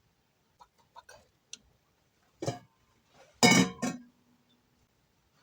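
Mixing bowl being handled in a kitchen sink: a few light clicks, then a sharp knock and, about three and a half seconds in, a loud clatter that rings briefly.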